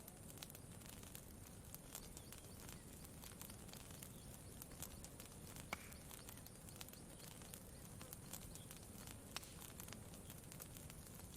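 Campfire crackling faintly: scattered sharp pops and ticks, one louder about halfway through, over a low, steady background.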